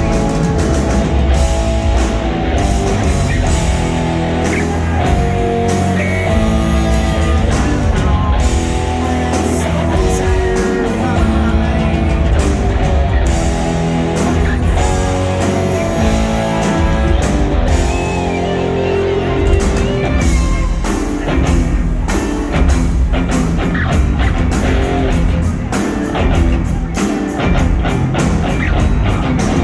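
Rock band playing live: electric guitar over bass and drum kit, continuous and loud.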